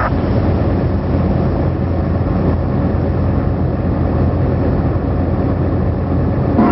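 Truck engine running steadily on the road, a low, even drone.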